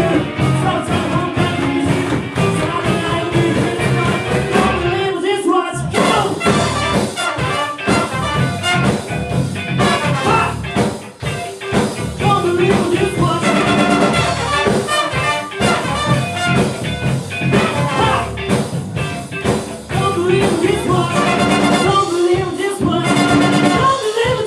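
A live band playing a song with a singer over a steady drum beat.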